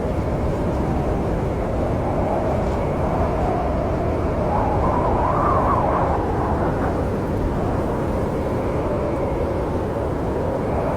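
Snowstorm wind with a steady low rush, swelling into a gust with a rising howl about four to six seconds in.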